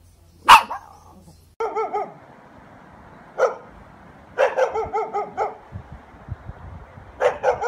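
Dog barking in bursts: one loud sharp bark, then volleys of quick, high-pitched barks in groups of three to six with short gaps between.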